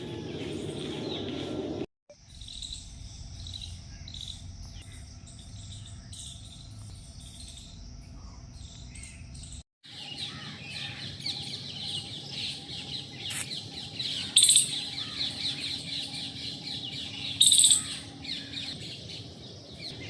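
Wild birds chirping and calling in a dense chorus, with two loud, sharp calls about three seconds apart near the end. The sound breaks off twice, at cuts between clips.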